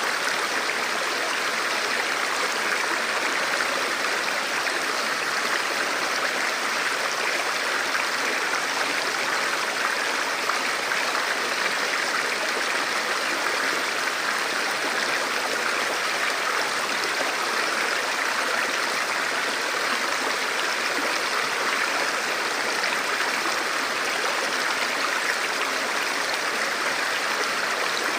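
Forest river flowing steadily over rocks: a continuous, even rush of water.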